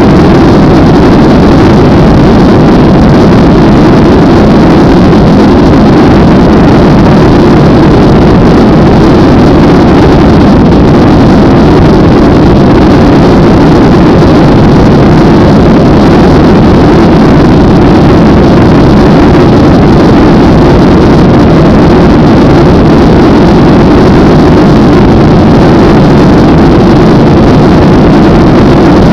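Loud, steady engine and airflow noise of an airliner in its takeoff, heard from inside the passenger cabin.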